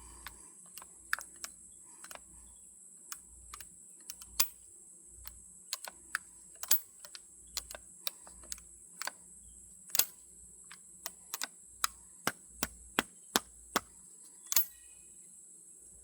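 Irregular sharp metallic clicks and taps from hands working an old single-shot 20-gauge shotgun's action, trying to open its breech, over a steady high-pitched hiss.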